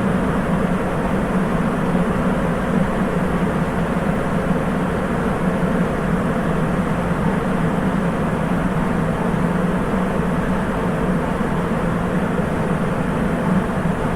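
Steady running noise inside a car of a Sapporo Municipal Subway 8000 series train (Hitachi IGBT inverter) on its rubber-tyred line: tyre and motor rumble while the train runs between stations, with no change through the stretch.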